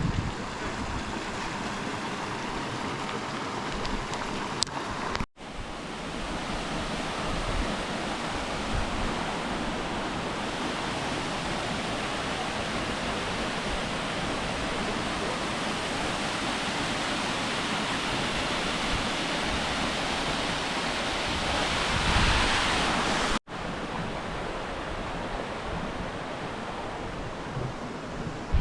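Steady rushing water of a waterfall, a continuous even noise that drops out abruptly twice, about five seconds in and near the end.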